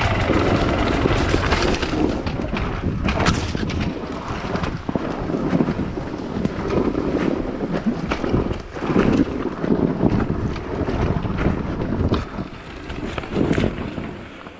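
Wind buffeting the microphone, with scattered knocks and rattles through it.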